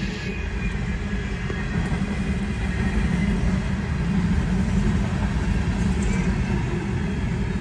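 CSX freight train rolling past, its diesel locomotives and steel wheels on the rails making a steady rumble that grows louder from about two seconds in.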